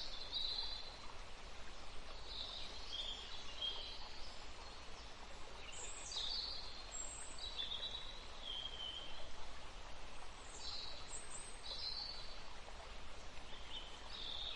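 Faint outdoor background: small birds chirping now and then with short high calls over a steady hiss.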